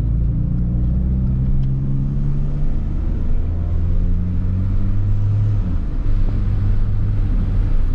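1993 Saab 900 Turbo S's 2.0-litre turbocharged 16-valve four-cylinder engine running while driving, a steady drone. Its pitch shifts a couple of times and drops about two-thirds of the way through.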